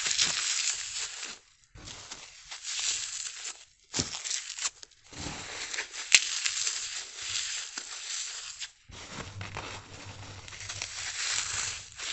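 Big slices of dry, unsoaked floral foam being crushed, crunching and crackling in several bouts with short pauses between them, and a single sharp snap about six seconds in.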